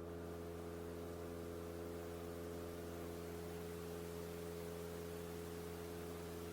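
Cessna 172 Skyhawk engine and propeller drone heard through the cockpit intercom feed: a steady, even hum with hiss over it, unchanging in pitch, as in level cruise.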